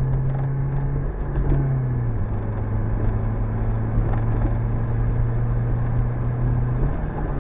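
1985 Toyota MR2's freshly rebuilt four-cylinder engine running while driving, heard from inside the cabin over road rumble. The engine note steps down about two seconds in, then climbs and drops again near the end.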